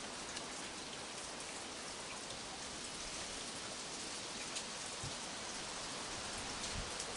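Steady rain falling, an even hiss with scattered drops pattering on nearby surfaces.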